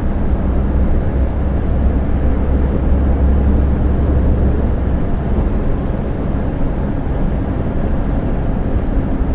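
Heavy truck driving at a steady speed, heard from inside the cab: a steady low engine and road drone, the deepest rumble easing a little about halfway through before coming back.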